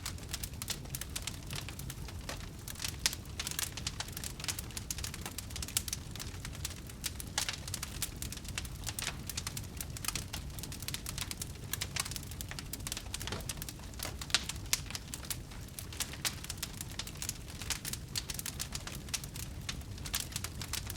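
Wood fire crackling: many irregular small pops and snaps over a steady low rumble.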